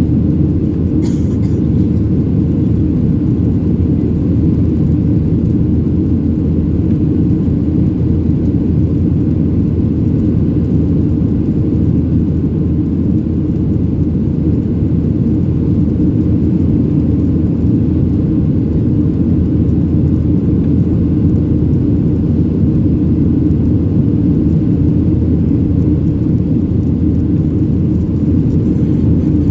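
Steady low roar of a Boeing 737-700's CFM56-7B jet engines and rushing air, heard inside the passenger cabin from a window seat.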